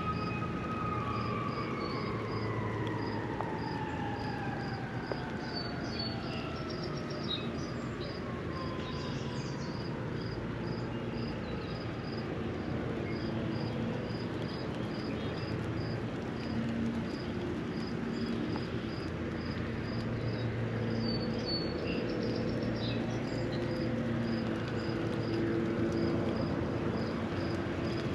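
Lakeshore ambience in light rain: a steady wash of rain and distant traffic noise with a low hum. A high chirp repeats about twice a second throughout, with a few brief bird calls. Over the first ten seconds a passing vehicle's tone slowly falls in pitch and fades.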